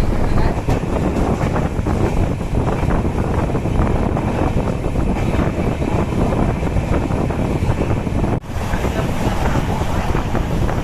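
Wind buffeting the microphone over a steady low rumble, with a brief drop-out about eight and a half seconds in.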